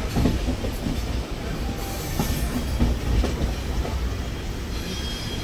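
Passenger train running on track: a steady low rumble with scattered wheel clicks over rail joints, and a faint high wheel squeal near the end.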